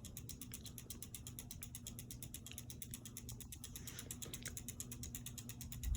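Hampton Bay Landmark III Plus ceiling fan running on high: a low steady motor hum with a fast, even ticking of about ten ticks a second.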